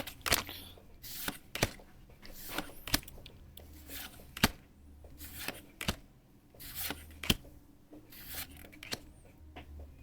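Pokémon trading cards being flipped through one by one by hand. A soft swish and a sharp click as each card is slid off the stack, every second or so.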